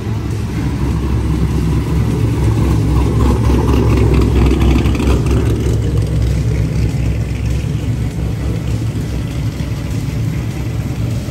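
Car engine running close by with a steady deep rumble, swelling louder over the first four seconds or so and then easing slightly.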